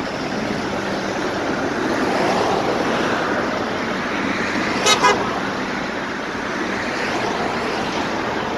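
Road traffic passing on a busy street, swelling as vehicles go by, with a brief double horn toot about five seconds in.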